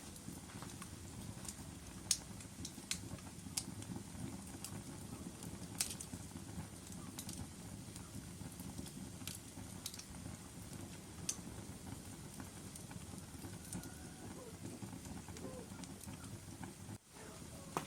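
Wood fire burning in a fireplace: a steady low rumble of flames, with irregular sharp crackles and pops from the logs. The strongest pops come about two and six seconds in.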